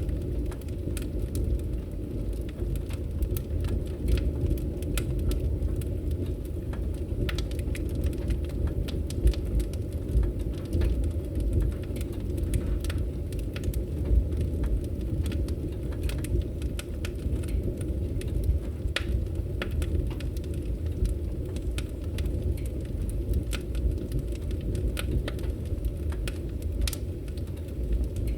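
Wood fire in a fireplace crackling, with frequent small pops and snaps over a steady low rumble. A few louder pops come about a third and halfway through.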